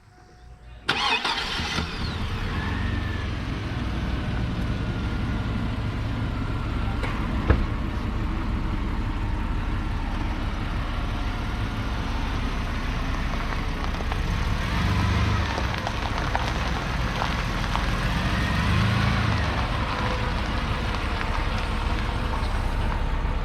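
Chevy S10 pickup's engine running steadily with a deep rumble, coming in abruptly about a second in, with one sharp click about seven seconds in.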